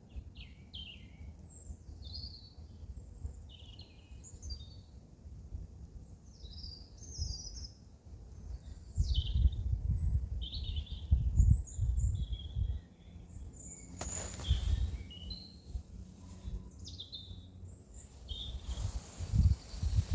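Small birds chirping and twittering in short repeated calls, over a low rumble that swells in gusts, with a brief rushing hiss about two-thirds of the way through.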